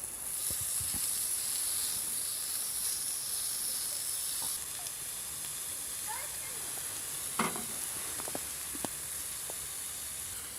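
Food sizzling in a hot pan on a camp stove, a steady hiss that is louder for the first four and a half seconds and then settles lower, with a sharp tap a little past the middle.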